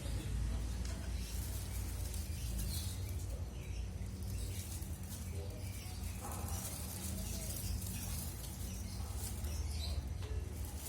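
Small caged songbird chirping faintly now and then, with some wing flutter, over a steady low hum.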